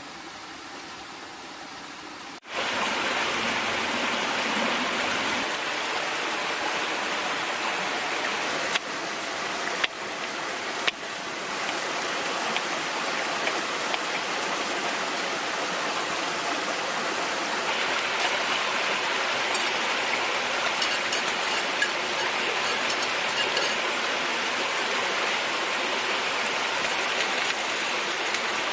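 Pig ear and green peppers frying in a pan over a campfire: a steady sizzling hiss that jumps louder about two seconds in, with a few sharp clicks around ten seconds in and fine crackling later on.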